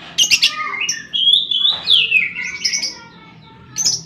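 Lovebird calling in a chattering run of sharp, high chirps, with a falling squawk about two seconds in and another sharp call near the end.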